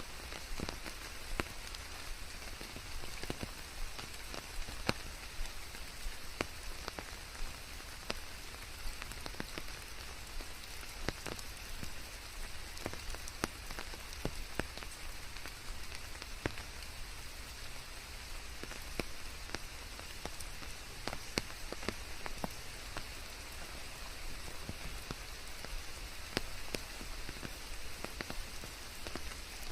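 Steady rain falling, with many separate drops tapping close by over a constant hiss, mixed with white noise.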